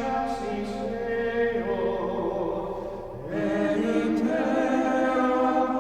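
Choir singing a slow unaccompanied chant in long held chords; the phrase ends about three seconds in and a new one begins.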